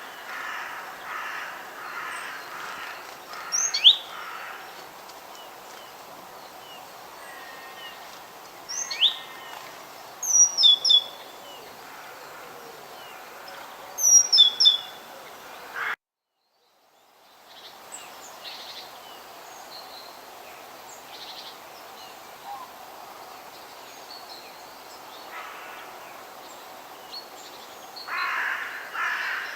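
Forest birdsong: loud, sharp calls sweeping up and down in pitch, repeated every few seconds over fainter background birds, with harsh cawing calls near the start and again near the end. Just past the middle the sound cuts out to silence for about a second.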